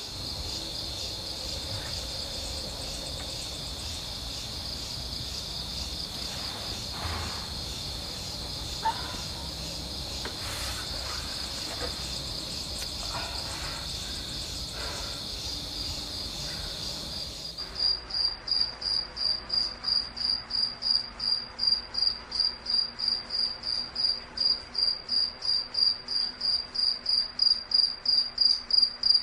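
Night insects chirring in a steady high trill, with a few faint knocks. About 17 seconds in the sound changes abruptly to a loud pulsing chirp, about three pulses a second, growing louder toward the end.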